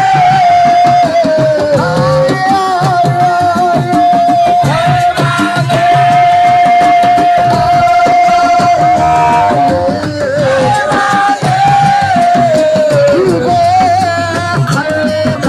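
Assiko band music: hand drums playing a busy rhythm under a melody that holds one long high note for several seconds, then moves on.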